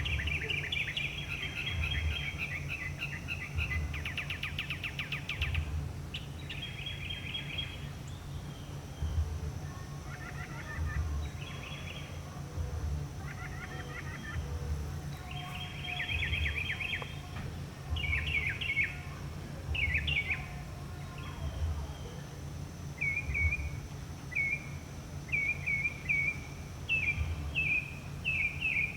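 Northern mockingbird singing a long run of varied phrases, each repeated several times in quick succession before it switches to a new one. A low rumble sits underneath throughout.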